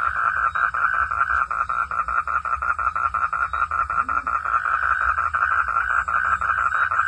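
Chorus of frogs calling at night in the rain, a steady rapid pulsing of about seven notes a second, with one brief lower call about four seconds in.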